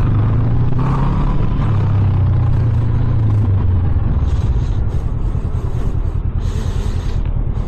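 Motorcycle engine running loudly as the bike is ridden, a steady low engine note that is strongest over the first four seconds.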